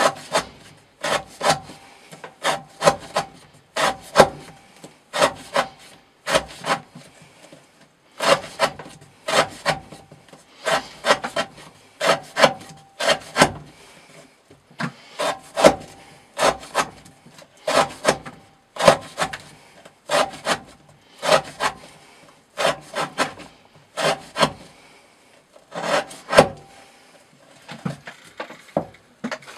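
Knife blade slicing through rope on a wooden board, stroke after stroke in a steady rhythm, each cut a short scrape, mostly in quick twos or threes about once a second: a rope-cutting test of the edge's wear resistance.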